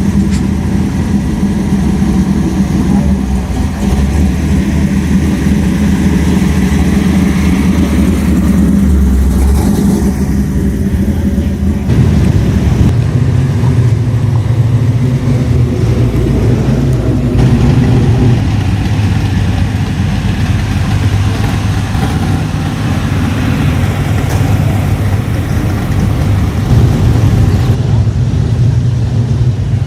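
A car engine running loudly and steadily, its low note shifting to a different pitch about twelve seconds in.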